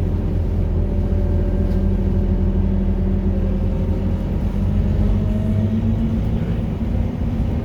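Scania K230UB city bus's 9-litre five-cylinder diesel running with a steady low drone, with a faint rising whine in the middle.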